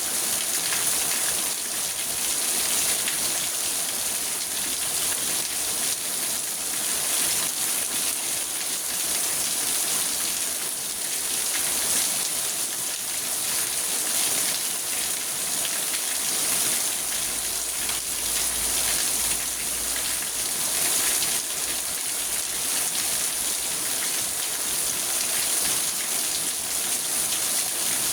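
Steady rain pattering on a car's roof and windows, heard from inside the car.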